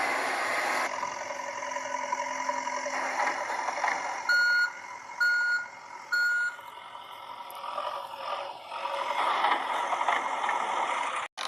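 Vehicle reversing beeper sounding three short electronic beeps, about a second apart, over a steady engine-like running sound.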